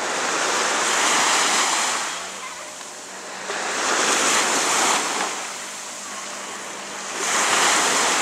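Sea waves washing onto a beach, the surf swelling and fading three times.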